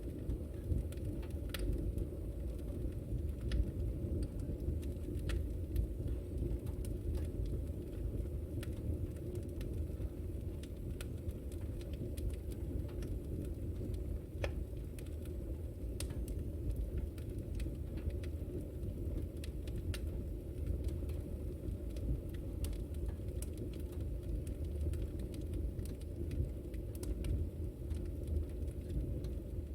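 Fireplace fire burning, with a steady low roar and irregular sharp crackles and pops scattered throughout.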